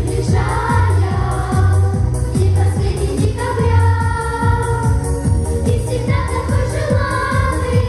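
Children's vocal ensemble singing a New Year pop song in unison phrases over a backing track with a steady beat and strong bass.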